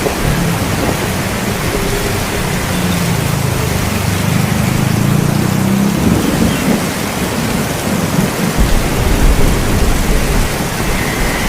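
Steady rain with rolling thunder. A low rumble swells a couple of seconds in and fades, then a deeper rumble sets in near the end.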